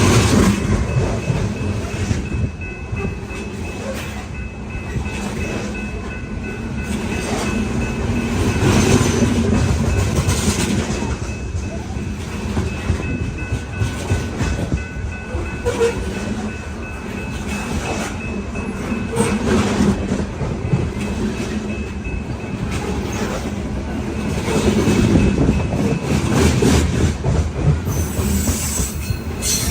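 Loaded coal cars of a long freight train rolling past, their wheels clicking rhythmically over rail joints over a steady rumble, with a faint high steady ringing from the wheels and rails.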